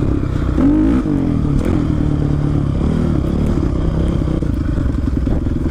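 Dirt bike engine running as the bike is ridden along a trail, rising and falling in pitch as the throttle is opened and closed about a second in, then holding a steadier note.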